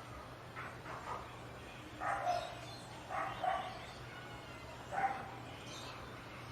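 Short animal calls, about five of them, each brief and separate, the loudest about two, three and five seconds in, over a steady low hum.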